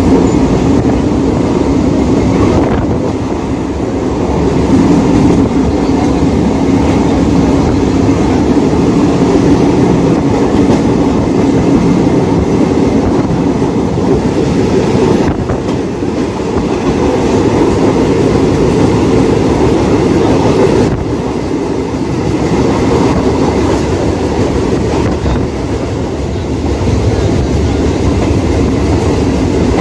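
Mumbai suburban local electric train running at speed, heard from aboard: a loud, steady rumble of wheels on the track.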